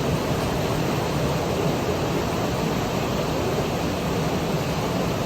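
Steady rain, a dense, even hiss with no breaks.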